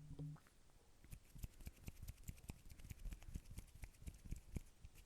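ASMR hand sounds close to the microphone: soft, irregular clicks and ticks of fingers and skin, several a second.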